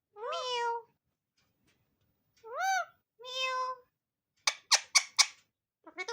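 Indian ringneck parrot calling: three drawn-out calls that rise and then fall in pitch, followed about four and a half seconds in by four short, sharp screeches in quick succession.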